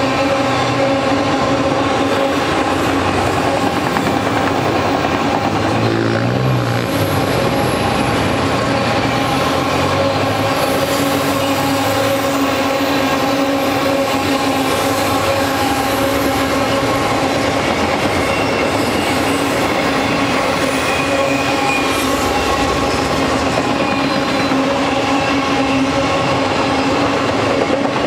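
Union Pacific auto rack freight cars rolling past on steel wheels, a steady rumble and clatter over the rails with a continuous ringing wheel squeal.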